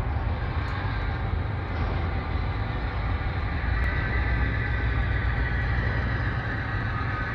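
Diesel train running: a steady low rumble with an even haze of rolling noise.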